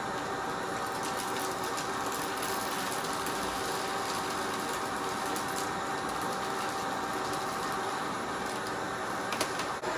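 Upright vacuum cleaner running steadily over a rug, with scattered clicks and rattles of dry debris being sucked up.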